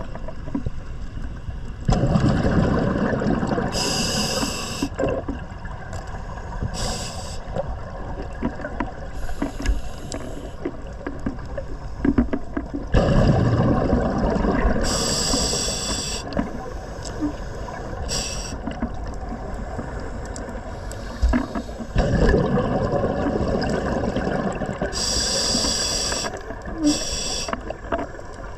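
Scuba diver breathing underwater through a regulator: three long rushes of exhaled bubbles about ten seconds apart, with short high hisses from the regulator in between.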